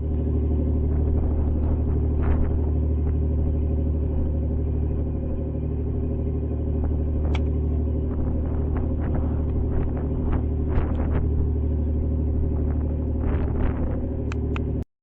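Steady low drone of a harbor cruise boat's engine heard from on board, with scattered light clicks and knocks over it.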